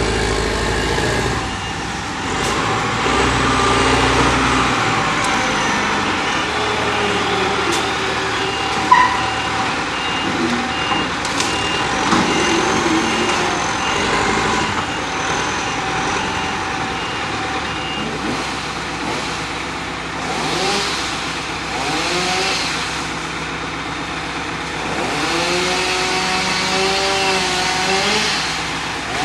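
Diesel engines of a payloader and dump truck running while they load branches, the pitch rising and falling as the machines work. A reversing beeper sounds for several seconds near the middle, and there is one sharp bang about nine seconds in.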